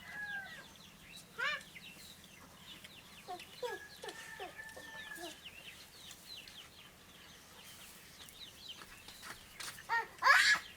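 Domestic chickens clucking in short, scattered calls, with a louder burst of calls near the end.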